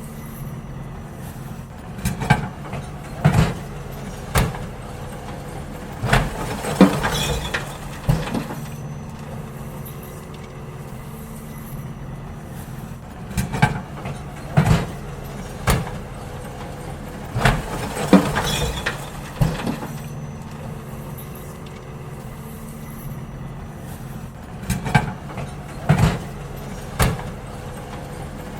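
Garbage truck's diesel engine running steadily while bins are emptied into it, with groups of loud bangs and clatters about five times, as the bins knock against the hopper.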